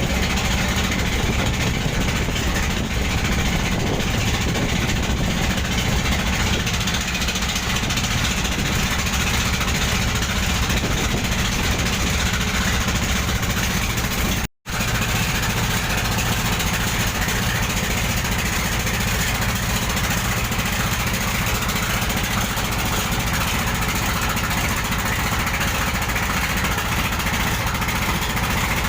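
A boat's engine running steadily under way, with a constant hiss over it. The sound cuts out completely for an instant about halfway through.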